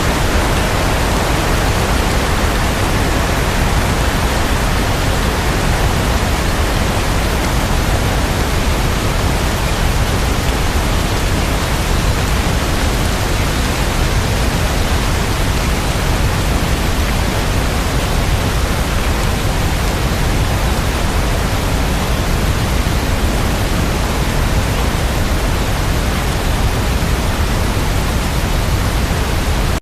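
Steady rain sound: a dense, even hiss of rainfall, with no single drops or thunder standing out.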